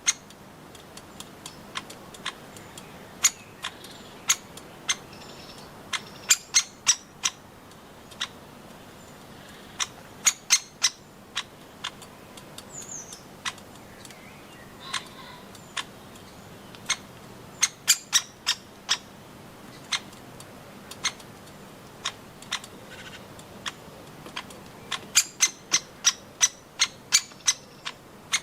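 Woodpeckers making sharp, short clicks in irregular clusters, with a quick run of about three a second near the end. A faint chirp from another bird is heard about halfway through.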